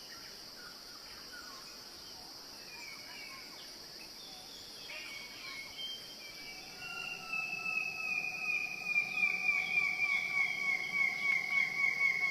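Wild forest ambience: a steady high insect drone runs throughout. About halfway through, a long pulsing call joins it and slowly falls in pitch.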